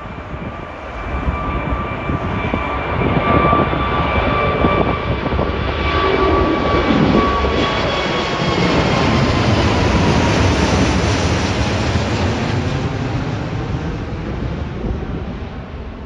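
Wide-body jet airliner's engines passing close by, building to a loud rush with a steady whine that bends slightly lower as it goes by, then fading near the end.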